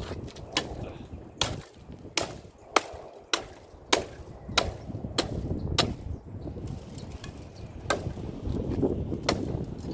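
Bush branches being cut back by hand: a series of sharp snips or chops, roughly one every half second to second, over a low rustle of foliage.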